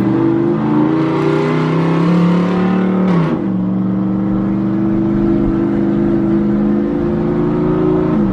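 A truck engine running hard at a held pitch, which drops sharply about three seconds in and then holds steady at a lower pitch.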